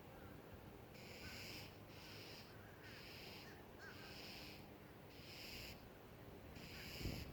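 A bird giving the same harsh call over and over, about once a second, six times, faint.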